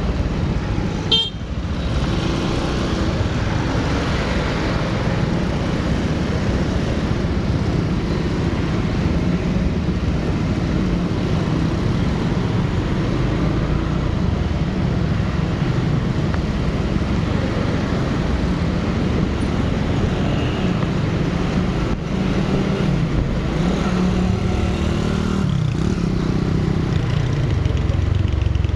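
Motorcycle running along a road in traffic: steady engine and road noise, with a sharp click about a second in.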